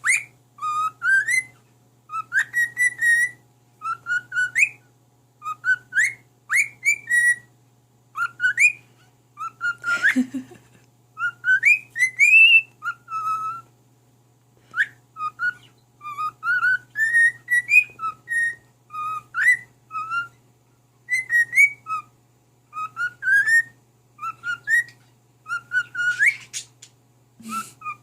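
Cockatiel whistling a song, a steady run of short, mostly rising whistled phrases, about one a second. A brief noisy sound cuts in twice, about ten seconds in and near the end.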